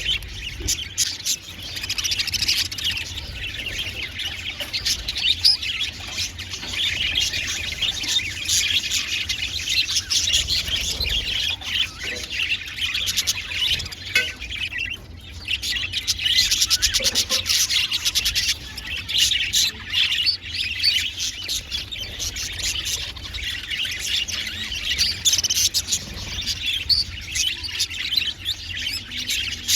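A flock of budgerigars chattering and chirping continuously, many rapid overlapping calls.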